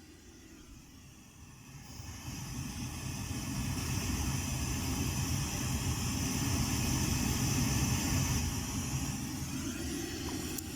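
Pink noise level-calibration signal played through home-cinema loudspeakers: a steady rushing hiss that swells up from low level about two seconds in and then holds.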